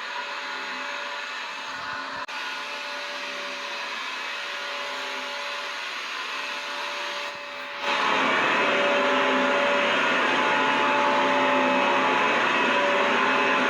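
Vacuum cleaner motor running steadily, a rushing noise with a steady whine through it. About eight seconds in it jumps up markedly in loudness and stays there.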